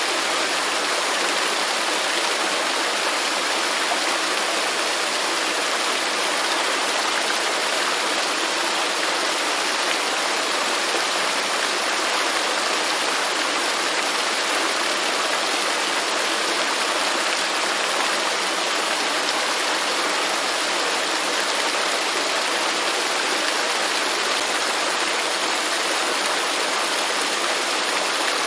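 Waterfall: a steady rush of falling water, even and unchanging, with little deep rumble.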